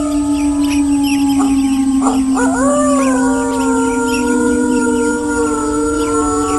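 Several wolves howling together in long, overlapping howls held at different pitches. A new howl starts about two seconds in, rising and then falling.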